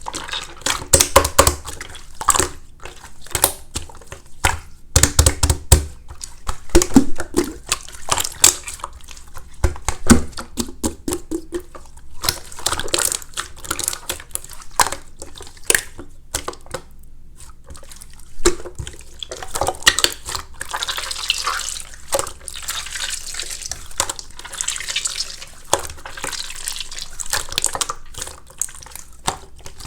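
Hands squishing and poking a wet, watery slime: a dense run of sticky clicks, pops and squelches, with a crackly stretch about two-thirds of the way through.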